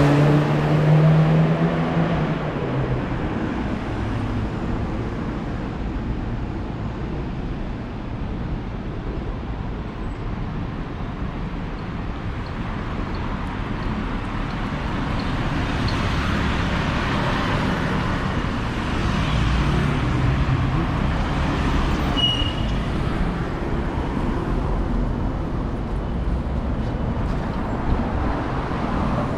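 Passing road traffic: steady tyre and engine noise of cars and buses. A vehicle engine's low hum is loudest in the first two seconds, the noise swells again midway as more vehicles pass, and a short high beep sounds about two-thirds of the way through.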